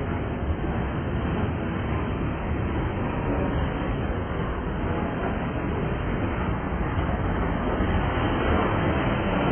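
Freight train of tank cars rolling past, a steady noise of steel wheels on the rails.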